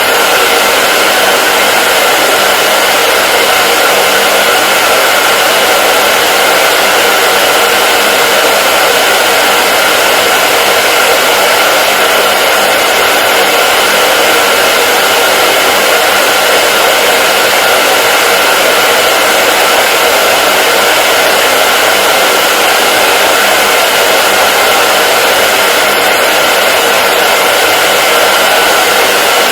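Hair dryer running steadily: a loud, even whooshing hiss of blown air over the fan motor's faint hum, unchanging throughout.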